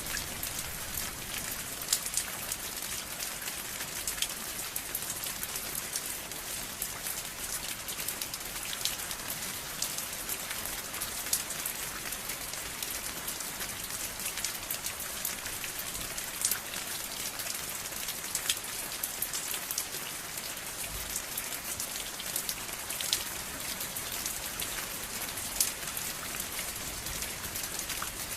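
Steady rain falling, with individual drops ticking sharply on a surface here and there over the even hiss.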